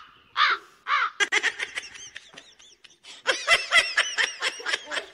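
A woman laughing hard in high, squealing bursts: a few short calls, then two runs of rapid laughter.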